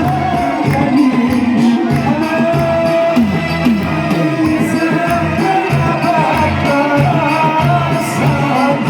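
Live Upper Egyptian (Sa'idi) folk music: a gliding melody over a steady beat of hand drums and tambourine.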